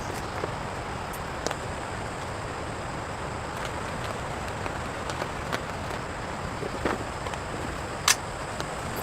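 Steady rain, an even hiss with a few scattered sharp ticks of drops landing.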